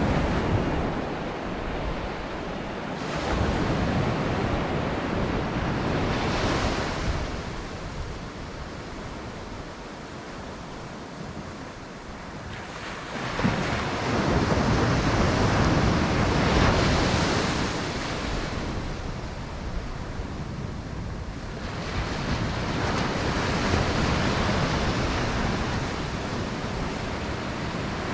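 Ocean surf: waves breaking and washing ashore in long swells that build and fade every several seconds, with wind on the microphone.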